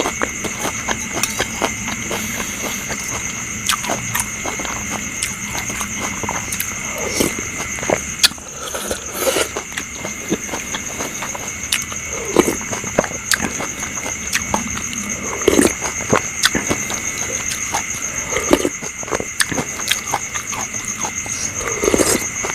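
Close-up eating sounds: irregular chewing, lip smacks and wet clicks from a mouth working through food. Behind them runs a steady high-pitched trill of night insects.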